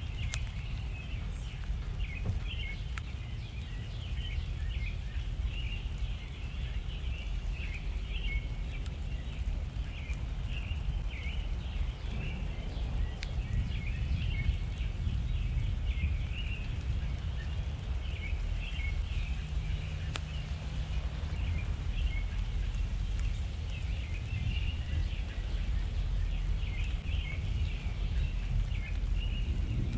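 Small birds chirping and twittering, many short calls one after another, over a steady low rumble.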